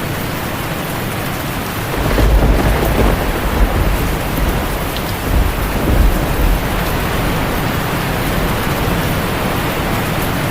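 Heavy rain on a tin roof, a steady hiss, with a deep rumble of thunder that comes in about two seconds in, swells twice and fades by about seven seconds.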